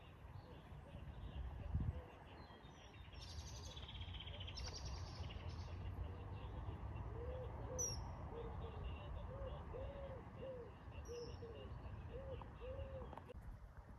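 Birds calling at a lakeside: scattered high chirps and some chattering early on, then a run of about ten short low notes in the second half, over a faint steady low rumble.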